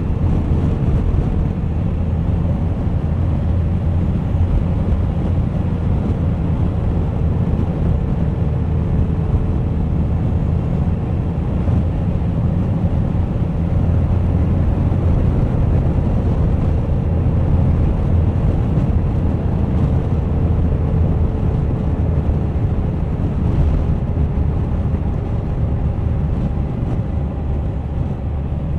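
Suzuki GSX1250FA motorcycle's inline-four engine running steadily at cruising speed, a low drone with a faint held note that slowly drops in pitch, mixed with wind rushing over the camera microphone.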